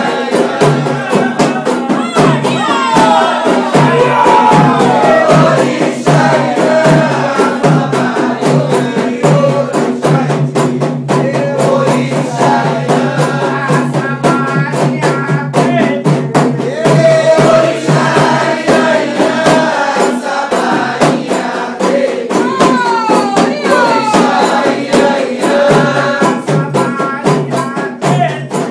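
Candomblé ritual chant: voices singing together over continuous rapid rattle and hand-percussion strokes.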